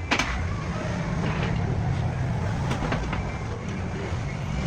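A motor vehicle running steadily with a low rumble, a sharp click right at the start and a few light clicks about halfway through.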